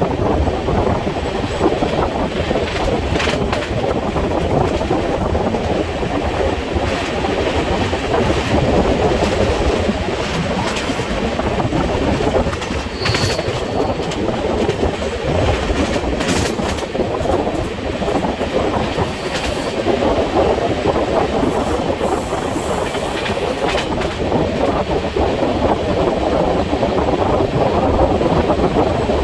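Telangana Express passenger train running along the track: a steady rumble of wheels on rails, with scattered clicks over rail joints and brief high-pitched wheel squeals about thirteen and twenty seconds in.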